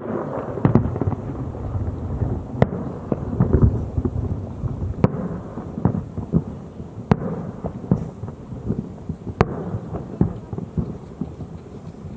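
Fireworks display: aerial shells bursting with sharp bangs about every two seconds over a continuous low rumble and crackle. The rumble is densest in the first few seconds and thins out toward the end.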